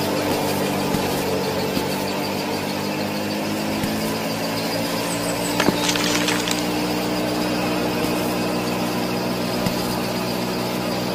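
Small motor of a miniature model wheat thresher running with a steady hum. About six seconds in, a short click and a brief hiss of wheat grains pouring from a small bowl into a toy trolley.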